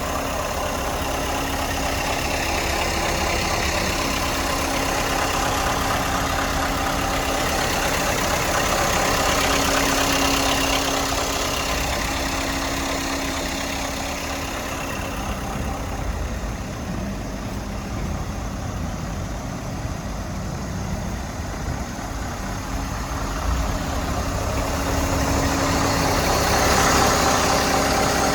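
Scania S 580's V8 diesel engine idling steadily, its level swelling and easing a little over the stretch.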